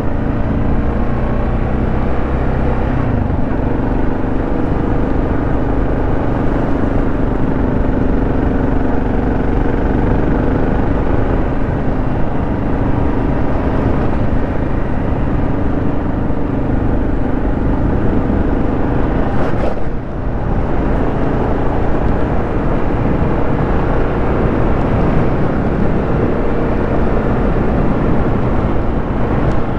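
Kawasaki KLR 650's single-cylinder engine running steadily while the bike is ridden, its note shifting a few times, with a brief dip in level about twenty seconds in.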